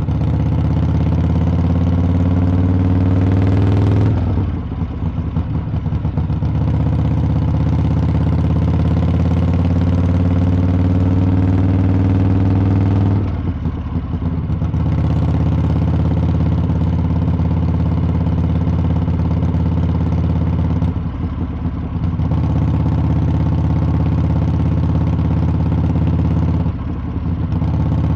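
Harley-Davidson V-twin exhaust under way on the road. The note rises steadily over the first few seconds, and the engine then drops off briefly about four seconds in. After that it holds a steady cruise, with short dips in the note around halfway through and again near the end.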